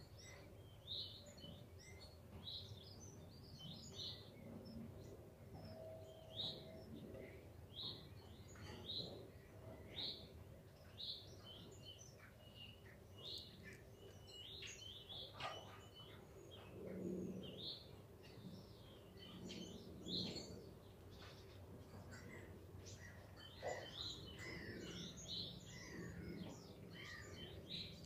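Unseen songbirds singing faintly: short high chirps and twittering phrases repeating about every second, over a low steady background hum.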